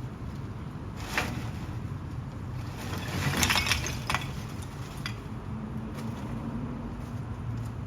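A heavy truck's engine runs with a steady low rumble, while hard material clatters and clinks against metal: a sharp clink about a second in, then a dense burst of clattering around three to four seconds in.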